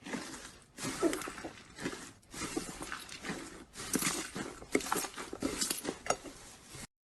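Slime being squeezed and poked by hand: wet crackles and squelches in uneven bursts with many sharp clicks, stopping abruptly near the end.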